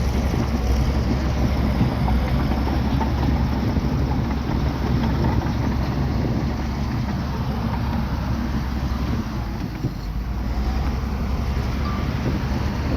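Bulldozer's diesel engine running steadily, dropping a little in level for about a second roughly nine seconds in.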